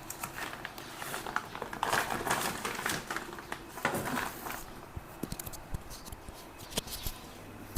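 Irregular rustling and crinkling with scattered light clicks, as of hands handling things at close range; it is busiest in the middle and thins out after about four and a half seconds.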